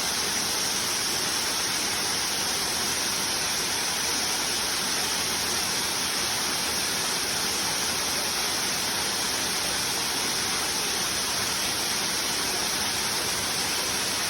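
Waterfall: a steady, unbroken rush of falling water, with much hiss in the upper range.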